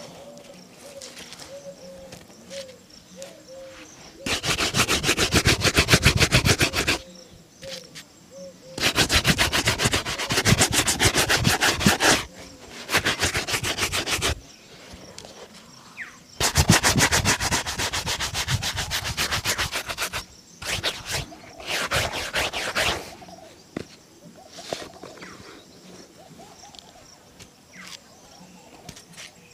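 A shoe being brushed with fast back-and-forth scrubbing strokes during a shoe shine, in five bursts of a few seconds each with short pauses between.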